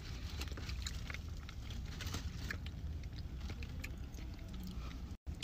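Soft chewing and small scattered clicks of a fork as a loaded baked potato is eaten, over a steady low rumble of a car cabin. The sound drops out for a moment near the end.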